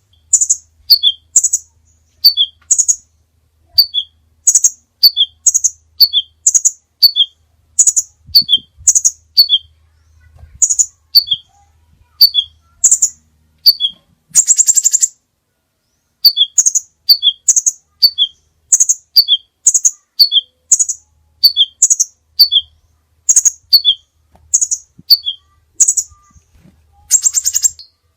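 A songbird singing loudly, repeating a short phrase of three quick high notes that fall in pitch, again and again with brief pauses. A longer buzzy trill comes about halfway through and again near the end.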